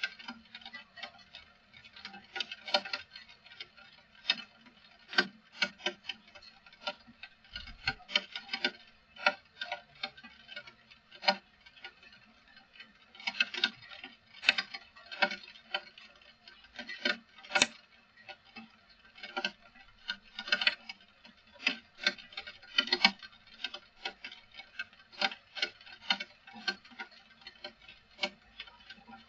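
Irregular taps and ticks of rainwater drops landing on a hard surface, several a second and uneven in strength, with no steady rush of rain between them.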